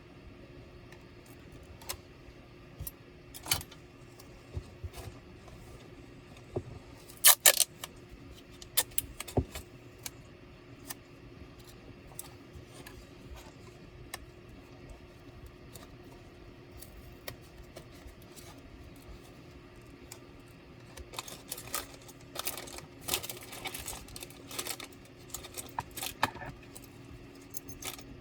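Scattered clicks, taps and small metallic rattles of laptop parts and tools being handled while taking a laptop apart, with a loud burst of clicks about seven seconds in and a busier run of clicks in the last several seconds.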